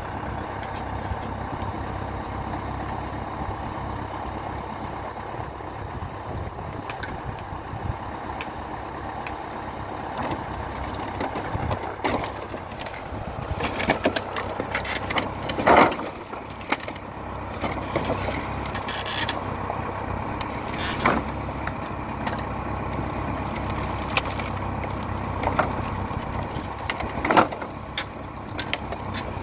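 Valmet 705 tractor's diesel engine running steadily while sawn boards are loaded with it. From about ten seconds in there are scattered sharp wooden knocks and clatters, loudest around the middle and near the end.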